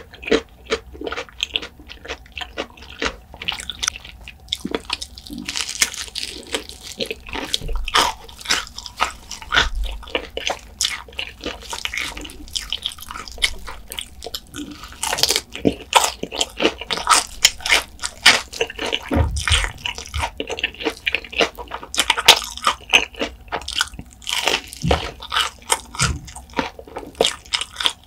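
Close-miked biting and chewing of crispy fried chicken, with a dense run of sharp crunches as the coating and skin break between the teeth.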